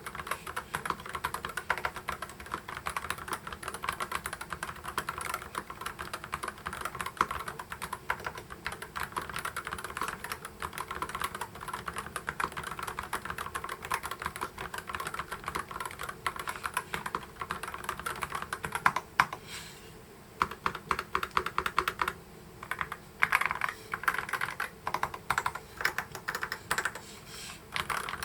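Typing on an EPOMAKER HE75 Mag keyboard with Gateron magnetic white (Hall-effect) switches: a fast, continuous stream of keystrokes that breaks into shorter bursts with brief pauses about twenty seconds in.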